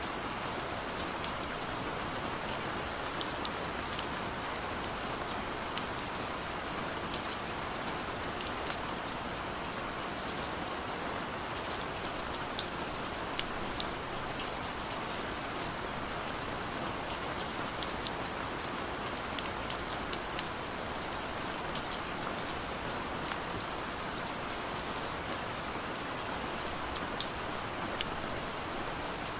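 Steady gentle rain falling, an even hiss with many scattered small drop taps.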